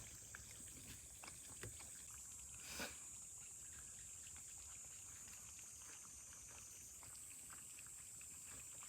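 Near silence: a faint steady high-pitched hiss, with a few soft clicks and a brief rustle about three seconds in.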